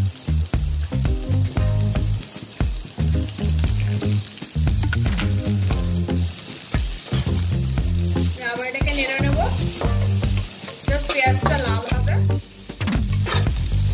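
Chopped onions, green chilies and cumin seeds sizzling in hot oil in a kadai while a metal spatula stirs and scrapes the pan with repeated knocks, over background music.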